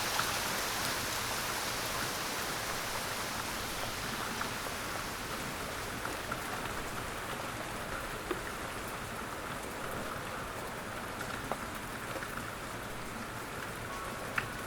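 Steady rain falling, with the occasional louder individual drop ticking against a surface. It eases a little over the span.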